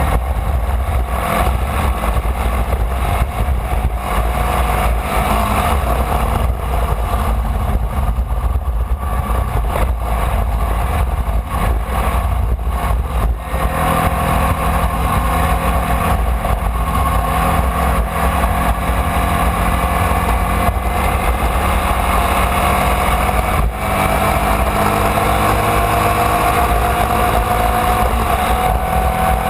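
Formula Vee race car's air-cooled Volkswagen flat-four engine heard onboard, running hard under a heavy low rumble. Its pitch climbs steadily through the second half, with two brief dips in level, one about halfway in and one later.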